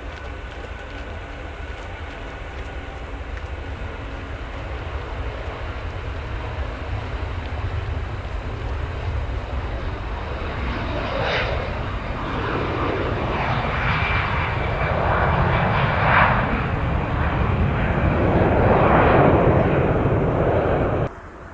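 Jet airliner's engines growing steadily louder as it comes close, a deep rumble under a rushing roar that swells and surges in the second half, then cuts off suddenly near the end.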